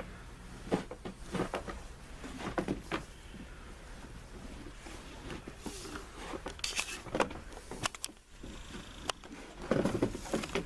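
Irregular crunches and scrapes in packed snow, several short ones spread unevenly, over a faint steady low hum.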